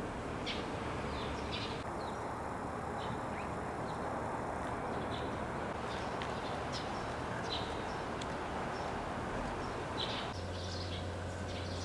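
Short, high bird chirps, a dozen or so scattered singly and in small clusters, over a steady outdoor background rush. A low steady hum comes in about ten seconds in.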